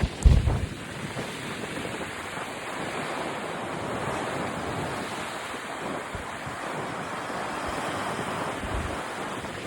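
Sea waves washing onto a beach in a steady surging hiss that swells and eases, with wind buffeting the microphone in low rumbles, the strongest just after the start.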